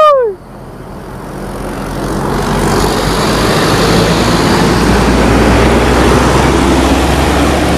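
A short, loud rising-and-falling tone cuts off at the very start. Then a large diesel vehicle's engine and tyre noise builds over a few seconds as it comes close, and stays loud as it passes.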